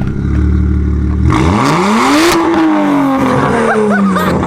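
BMW 135i's N54 twin-turbo 3.0-litre straight-six, straight-piped with no silencers, idling and then revved once: the note climbs quickly for about a second and sinks back slowly over the next two. It is loud throughout.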